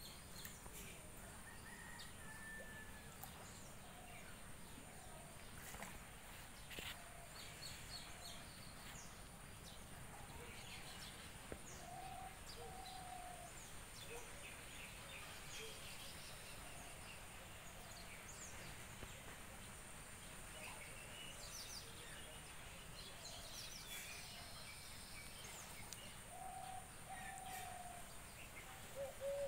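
Quiet outdoor ambience: a steady low hiss with scattered bird chirps, and a few times a short, lower arching bird call.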